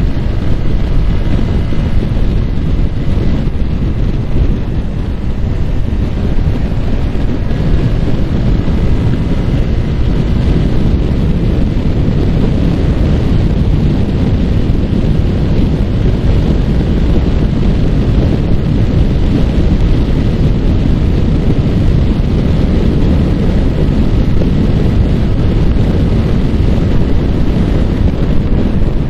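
Steady low rush of wind buffeting the microphone on a Yamaha R15 motorcycle at speed, with the bike's engine faintly heard beneath it.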